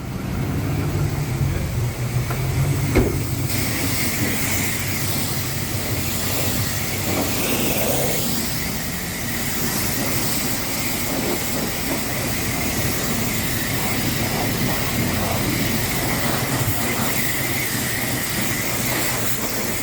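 Self-serve car wash high-pressure wand spraying water, a steady hiss that starts about three and a half seconds in, over a pickup truck's engine idling.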